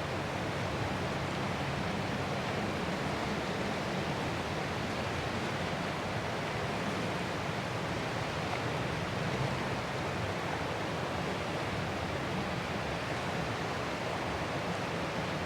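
Ocean surf as a continuous, even rush of water, with no single wave crash standing out.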